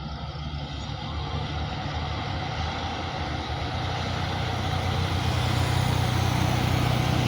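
Two Hino trucks' diesel engines running, a low steady drone that grows gradually louder as the trucks approach.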